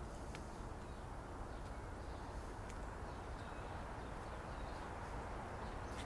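Park ambience: a steady low hum of distant city traffic, with faint bird chirps and a few light clicks.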